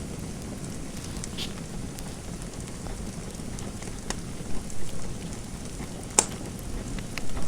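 Fireplace fire crackling: a steady low rushing with scattered sharp pops, the loudest about six seconds in.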